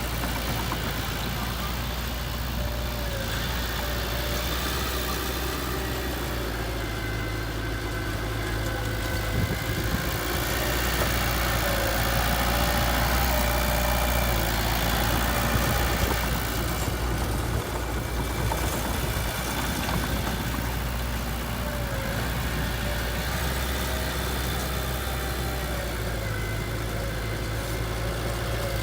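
Heavy diesel machinery engine running steadily, a little louder for several seconds in the middle.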